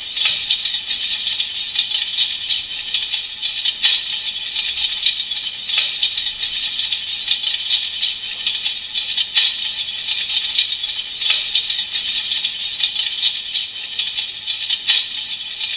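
Electric fireplace's simulated crackling-fire sound: a steady dense crackle with a sharper pop about every two seconds.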